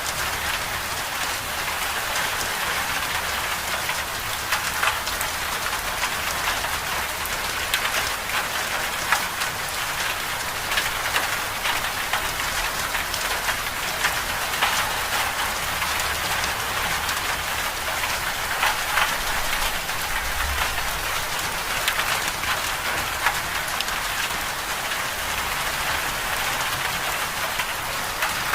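Winter storm ambience of steady rain pattering on a surface: a constant hiss dotted with many small drop ticks.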